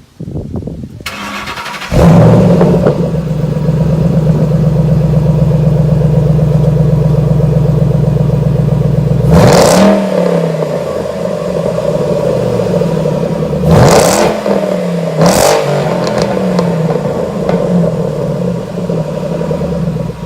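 Supercharged 5.8 L V8 of a Shelby GT500 starting up through a newly fitted Corsa Sport axle-back exhaust. It catches about two seconds in with a flare, settles into a steady idle, and is blipped three times near the middle, each rev falling back to idle.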